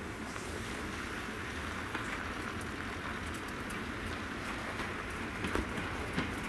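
EN71 electric multiple unit approaching slowly over the station tracks: a steady rushing rolling noise with scattered light clicks from the wheels, more frequent toward the end.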